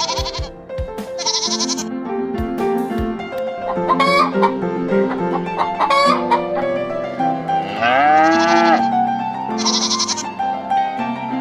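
Goat bleating a few times over background music with a melody, one call near the end rising in pitch.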